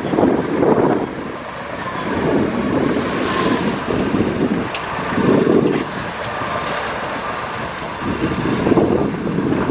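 Diesel engine of heavy earthmoving machinery running, its sound swelling and easing every second or two, with wind buffeting the microphone.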